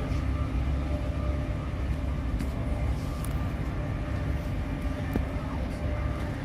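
Steady low rumble of a passenger train running, heard from inside the carriage, with a faint steady whine and a few light clicks over it.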